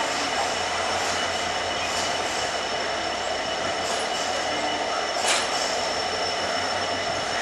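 Passenger train coach running along the line: a steady rumble and rattle with faint steady whines, and one sharp click about five seconds in.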